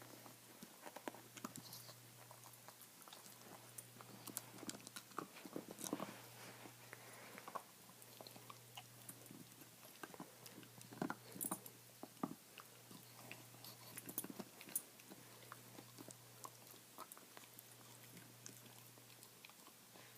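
Dog gnawing on a bone: irregular crunches and clicks of teeth on bone, coming in uneven clusters.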